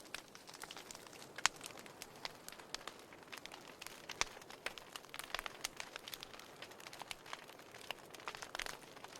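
Burning firewood crackling: irregular sharp pops and snaps over a soft steady hiss of the flames, with a couple of louder pops about a second and a half and four seconds in.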